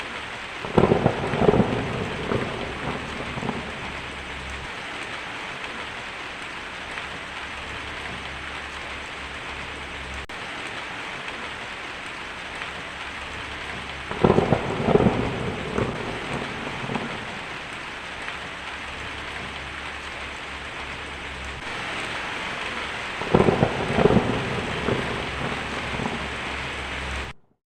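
Heavy rain drumming steadily on a tin roof, with three peals of crackling thunder about a second in, around the middle, and near the end. The sound cuts off abruptly just before the end.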